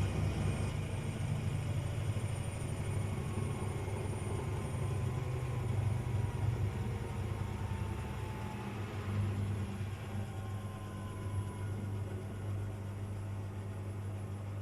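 A Candy appliance making a continuous low, rapidly pulsing thumping rumble: the thumping fault it is recorded for. It eases slightly about two-thirds of the way through.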